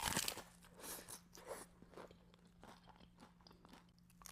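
Close-up crunching and chewing of a taco: one loud crunch at the start, a few softer crunches about a second in, then quieter chewing. A faint steady hum sits underneath.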